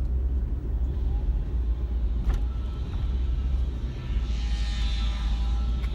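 Car interior road noise while driving: a steady low rumble from the engine and tyres, with a single click about two seconds in.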